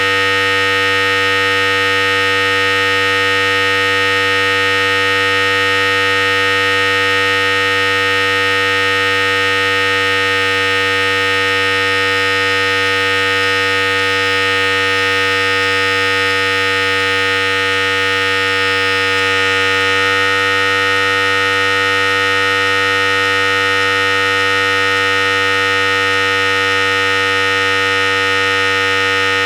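Philips Series 5000 electric hair clipper running continuously with a steady, even buzz.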